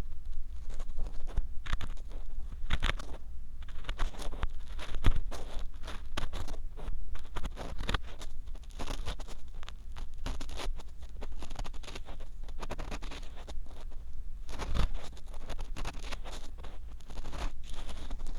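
Ear pick (mimikaki) scraping and scratching inside the silicone ear of a binaural 3Dio microphone, heard very close as a dense, irregular run of scratches and clicks over a low rumble.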